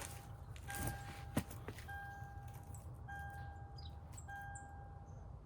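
A vehicle's electronic warning chime beeping steadily, about a second on and a short gap off, over and over. There is a single sharp knock about a second and a half in, with some rustling.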